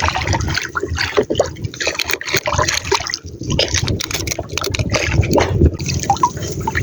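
Water splashing and trickling, with irregular small clicks and knocks throughout.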